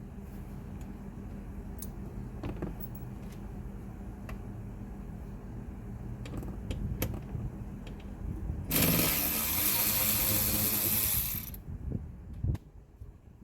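Mechanical tool work with scattered small clicks over a low hum, then a loud hiss lasting about three seconds, followed by a single sharp knock.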